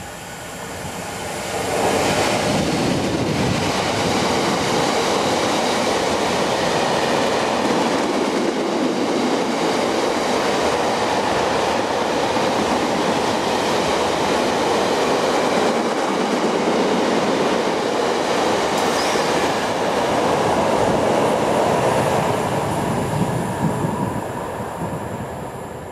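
Class 66 diesel locomotive passing close by at speed, hauling a long rake of covered hopper wagons that rumble past on the rails. The sound swells about two seconds in, stays loud and steady as the wagons go by, and fades near the end.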